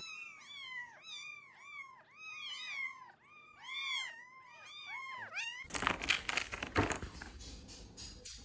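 Cat meowing in a quick run of short rising-and-falling calls, many in succession. About five and a half seconds in, it gives way abruptly to a noisy clatter with knocks.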